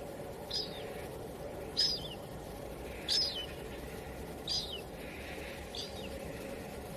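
A bird giving a short, high call five times, roughly every second and a quarter, each ending in a quick downward slur, over a steady background hiss.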